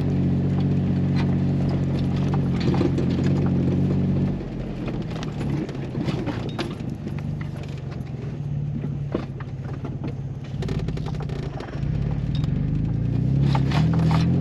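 Jeep Wrangler engine running at low speed, with scattered clicks and pops from the tyres. The engine is louder for the first few seconds, eases off, and picks up again near the end.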